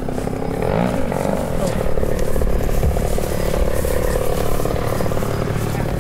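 Giant-scale RC aerobatic airplane's 100cc gasoline engine running, its pitch sliding up and down briefly as the throttle changes.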